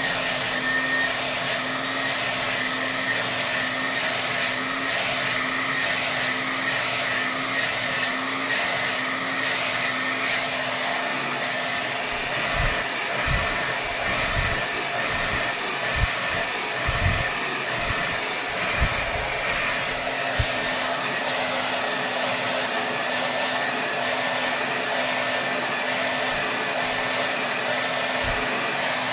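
Hair dryer running steadily at full power: a continuous rush of air with a steady low hum and a high whine from the motor. A few brief low thumps come partway through.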